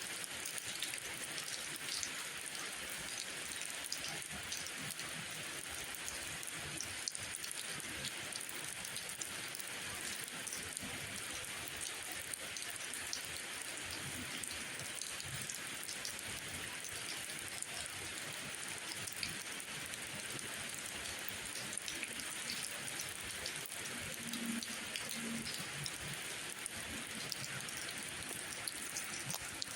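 Steady rain falling, an even hiss scattered with many small separate drop ticks.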